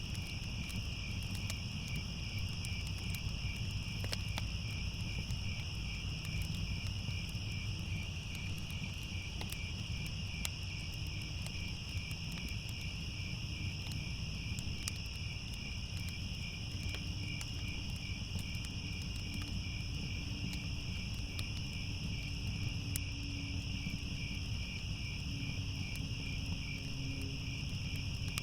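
Crickets chirping in a continuous, rapidly pulsing trill, over a low rumble with scattered faint crackles from a fire.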